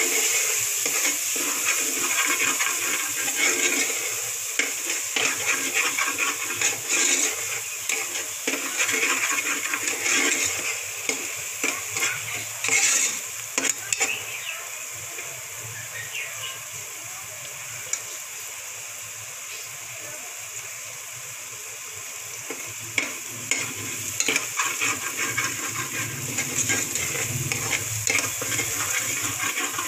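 Mutton mince frying in oil in an aluminium pressure cooker, sizzling steadily while a steel ladle stirs it and scrapes and clinks against the pot. The stirring lets up for several seconds midway, leaving mostly the sizzle, then picks up again.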